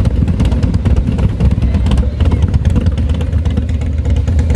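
Motorcycle engines running loud, a steady deep rumble with a fine crackle over it.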